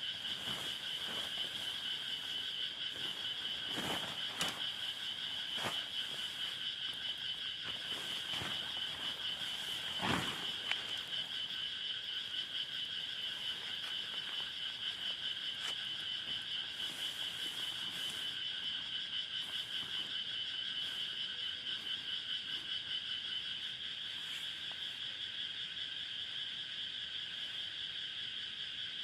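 Steady evening chorus of frogs, a fast pulsing trill held on two pitches. A few short knocks and thumps in the first ten seconds or so, the loudest about ten seconds in.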